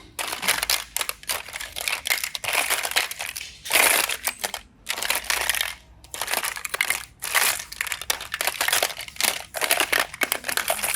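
Crackly crushing and crinkling sounds in quick irregular bursts, from hands squeezing and working slime.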